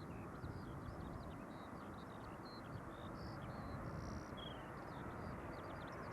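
Many small birds chirping and trilling in quick succession over a steady low rumble.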